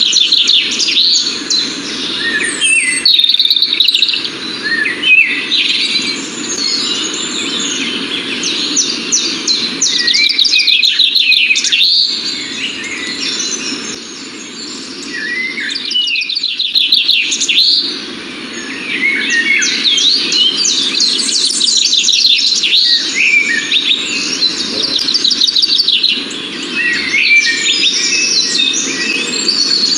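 Small birds chirping and twittering, with many quick overlapping chirp series that pause briefly now and then.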